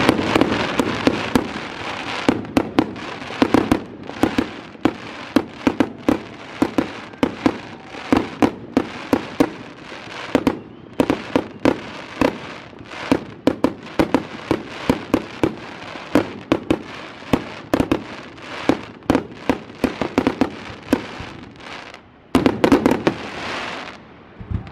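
Aerial fireworks display: shells bursting overhead in a rapid run of sharp bangs and pops, several a second, with a louder, denser flurry near the end.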